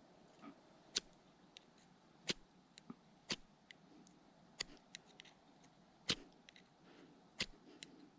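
A metal striker flicked sharply down the flint rod of a magnesium fire starter, about seven quick scrapes, roughly one every second and a half, with fainter ticks between them. These are attempts to throw sparks onto shaved magnesium flakes to light tinder.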